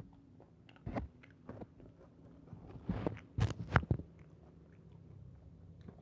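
A person biting and chewing roast chicken close to the microphone, with a few short crunches about a second in and a louder cluster of crunches near the middle.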